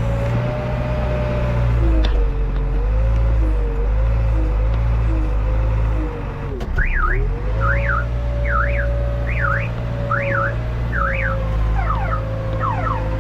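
Diesel engine of a JCB backhoe loader running, its pitch wavering and dipping briefly about halfway through. From about halfway a warbling alarm tone sweeps up and down over and over.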